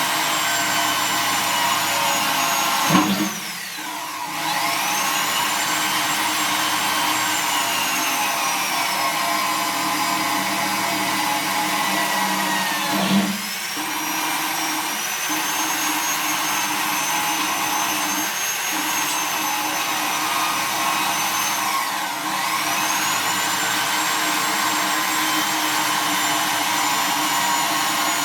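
Small high-speed electric drill with a 1.5 mm bit running steadily. Its whine dips sharply in pitch and recovers three times, with a knock at the first two dips, as the bit bites and the drill moves from hole to hole around a ring of holes.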